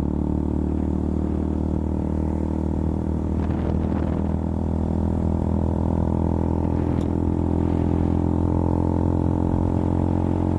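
KTM Duke 200's single-cylinder four-stroke engine running at a steady cruising speed, its pitch holding level, heard from on the bike.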